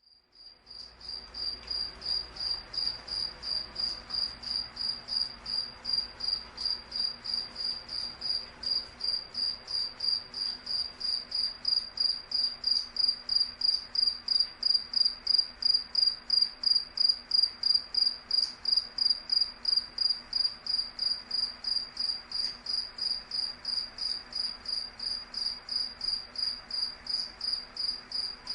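A cricket chirping: a high-pitched, even pulsing of about three chirps a second. It comes in after a brief silence and swells up over the first second or so.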